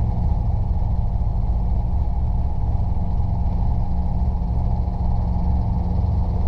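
Robinson R22 helicopter's piston engine and rotors heard from inside the cabin, a loud, steady low drone while the helicopter hovers low for a landing.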